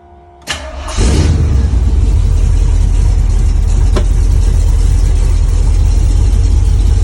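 Carbureted vehicle engine cold-started with the choke pulled partly out. It cranks for about half a second, catches about a second in, and then runs loud and steady.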